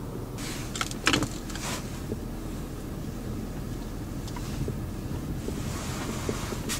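BMW 520i E39's 2.2-litre straight-six running, heard inside the cabin as a steady low hum. A few clicks and rustles come about a second in, and a hiss swells near the end.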